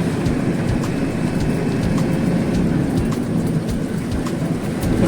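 Truck engine running while driving, heard from inside the cab: a steady low rumble with light rattling clicks.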